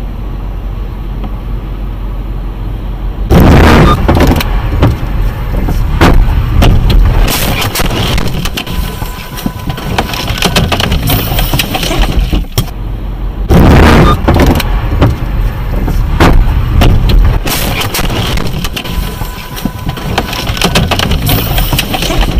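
Car road noise, then two sudden very loud crashes about ten seconds apart, each followed by a stretch of rattling and knocking noise: vehicle collisions.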